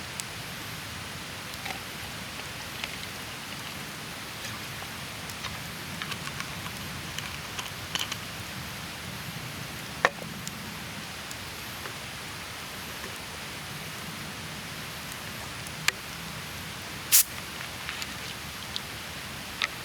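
Steady outdoor rushing noise, like flowing water, with scattered sharp clicks and pops, two of them louder about halfway through and near the end.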